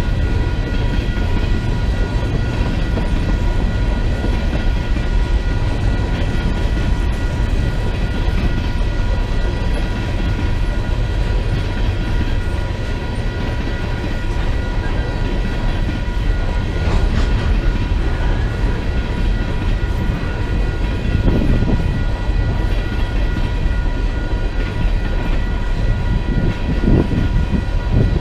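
A train rolling past close by: a loud, steady rumble of wheels on rail, with a thin, steady whine of several high tones held over it.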